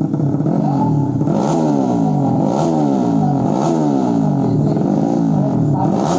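Racing motorcycle engine revved over and over, its pitch climbing and dropping back about once a second.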